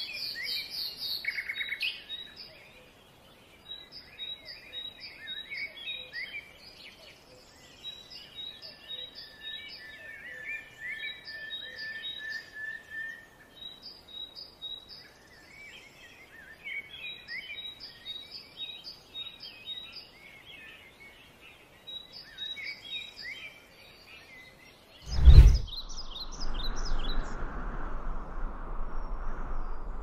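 Forest birdsong: one bird repeats a short phrase of quick high notes every second or two, with other birds calling softly behind it. About 25 seconds in there is a loud thump, followed by a steady rushing noise with a low hum.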